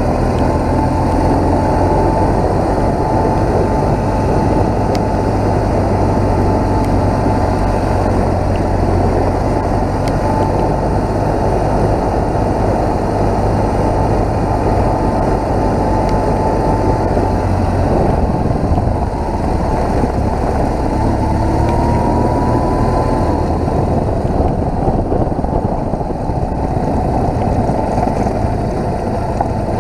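BMW R1200GS boxer-twin engine running steadily while riding, under a dense rush of wind noise.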